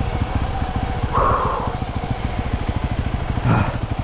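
Honda CRF300L single-cylinder dirt bike engine running at low revs, a steady rapid train of firing pulses, with a short louder burst about a second in.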